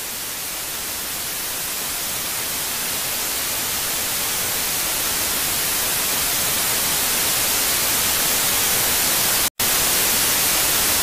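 Loud, even hiss of static, like white noise from a blank channel, growing slowly louder, with a split-second cut near the end.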